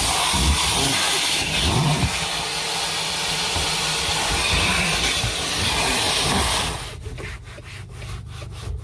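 Vacuum cleaner running with a loud, steady hiss, switched off about seven seconds in. A quieter low hum and a few light scrapes are left after it.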